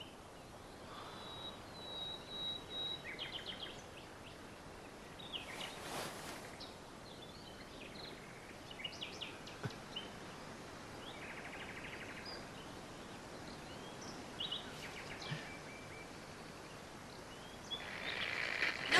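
Quiet outdoor ambience with scattered short bird chirps and whistles, and a brief swish about six seconds in. Near the end a hiss swells in.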